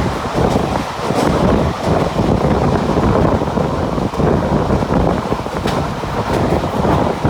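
Mumbai suburban local train running along the track: a steady rumble of wheels on rails, with wind buffeting the microphone.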